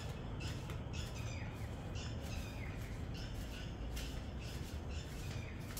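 Birds chirping, a string of short falling calls repeating every half second or so, over a steady low rumble.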